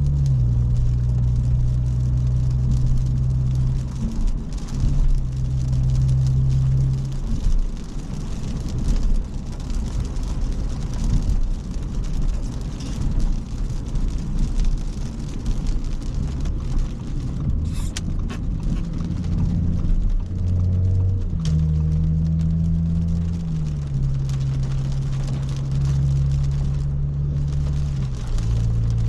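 Audi S5 with a catless downpipe and stage 1 tune, heard from the cabin while cruising. The engine's low hum holds steady and shifts up and down in pitch a few times as speed and gears change, over steady road noise.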